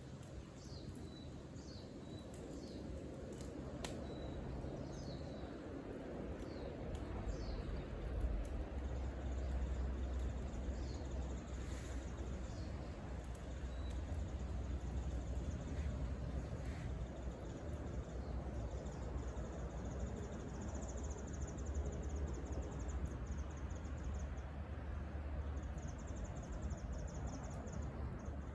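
Outdoor woodland ambience: a steady low rumble under a few short, falling bird chirps near the start, with a high, buzzing insect chorus coming in over the second half.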